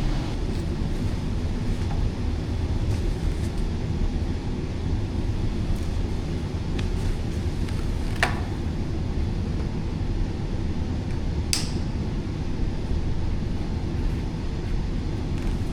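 Central air conditioner running, a steady low rumble of blower and moving air. Two brief sharp clicks, about eight and eleven seconds in.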